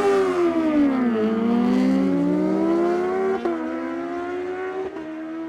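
Superbike engines running hard down a drag strip. The engine note drops over the first second, climbs steadily, breaks abruptly about three and a half seconds in, then holds high and level.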